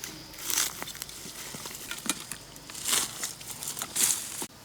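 Dry leaves and twigs rustling and crackling, in three louder bursts with small clicks between.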